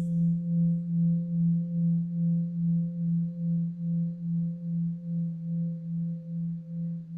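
Singing bowl ringing with a low, steady hum and a fainter higher overtone. The tone wavers in an even beat about two to three times a second and slowly fades.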